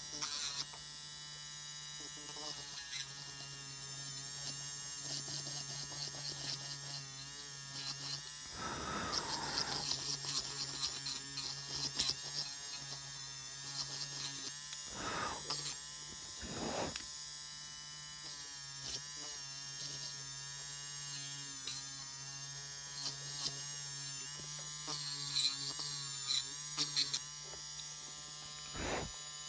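Small electric rotary nail drill running steadily with a high motor whine, with a few short noisy bursts along the way.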